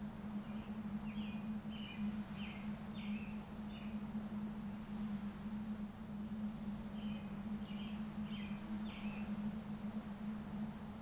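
A small songbird sings two short phrases of several quick chirping notes, one about half a second in and another around seven seconds in, over a steady low hum and an even background hiss.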